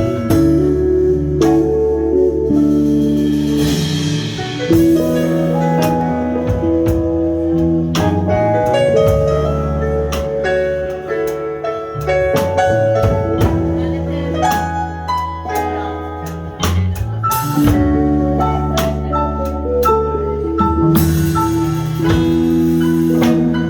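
Live jazz band playing an instrumental passage with no singing: held keyboard chords and melody notes over a bass line and a drum kit.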